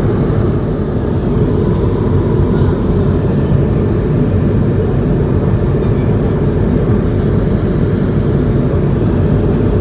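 Airbus A220-100 cabin noise from inside the economy cabin: a steady, loud rumble of its Pratt & Whitney geared turbofan engines and airflow, holding an even level throughout.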